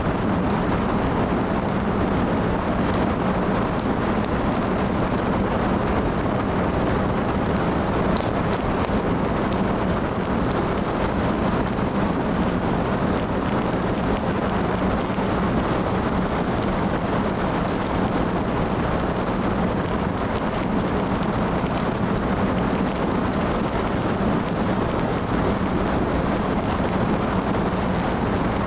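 Wood fire burning, with a few faint crackles over a steady rushing background noise.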